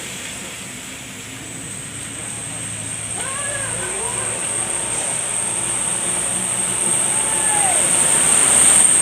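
Road traffic with a vehicle coming closer, its noise building steadily louder, with a few short calls that rise and fall in pitch over it.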